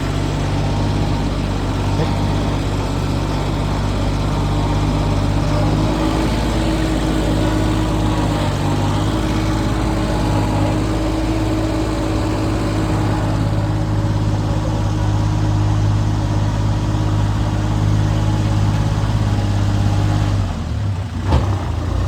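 An engine running steadily with a low hum, with a brief dip and a knock about twenty seconds in.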